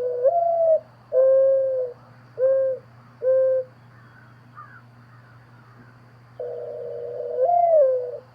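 A bird's low hooting calls: a long note that lifts in pitch near its end, another long note, then two short ones. After a pause of about three seconds comes a long note that rises and falls away.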